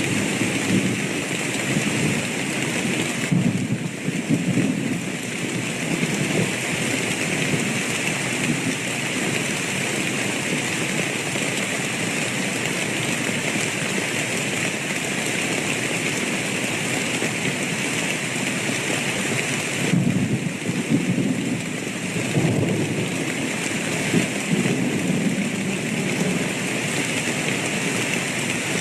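Steady heavy rain falling, with low rolling thunder swelling twice: in the first few seconds and again about two-thirds of the way through.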